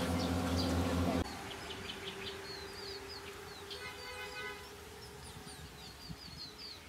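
A steady low hum cuts off about a second in. Small birds then chirp and twitter in many quick short calls, over a faint steady tone.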